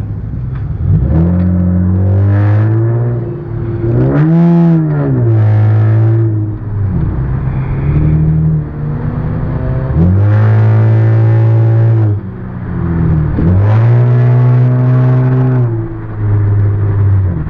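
Car engine revving hard several times, its pitch climbing and dropping again and again, with short spells held at a steady pitch in between.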